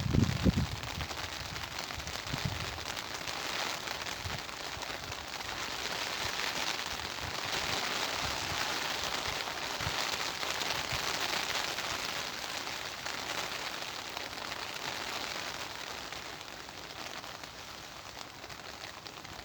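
Steady rain falling, a dense patter that grows a little louder midway and eases toward the end, with a brief gust of wind buffeting the microphone at the very start.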